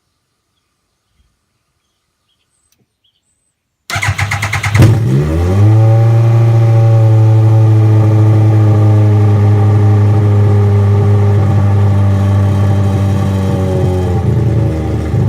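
Pro-Motive R1 mini's small engine starting: about four seconds in it turns over with a short rapid pulsing, catches with a brief rev, and settles into a loud, steady run, its pitch shifting slightly near the end.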